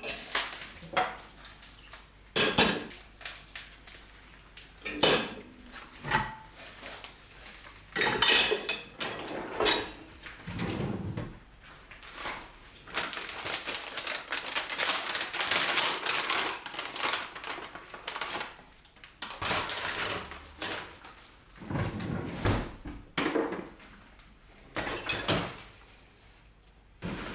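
Dishes and cutlery clinking and knocking as they are handled and set down, in a string of separate sharp strikes. A stretch of steady hissing noise runs through the middle.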